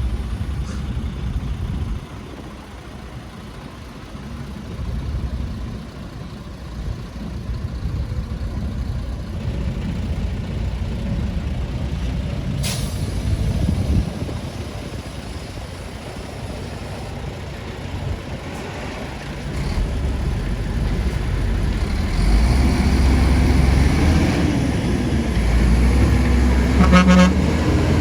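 Heavy diesel engines of dump trucks and earthmoving machinery running, a low rumble that grows louder in the second half. There is a sharp hiss about halfway through and a brief horn-like toot near the end.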